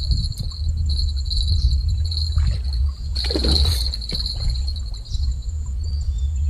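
Insects chirring steadily in a high, pulsing buzz over a low rumble, with a brief rustle about halfway through.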